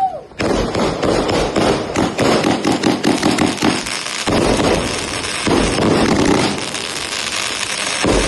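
Battery firework (multi-shot cake) going off: a dense, rapid string of cracks and bangs, after a brief drop-out right at the start.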